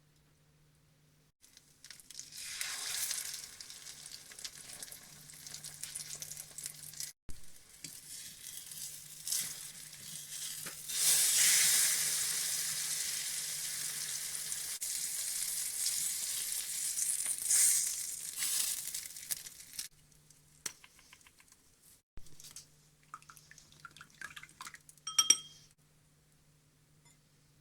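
Egg-coated pork chop sizzling as it fries in hot oil in a pan. The sizzle starts about two seconds in, flares up loudest around the middle and dies away, followed by a single sharp ringing clink near the end.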